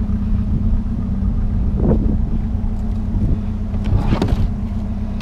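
Vehicle engine running steadily at a constant speed, with a couple of brief sounds about two and four seconds in.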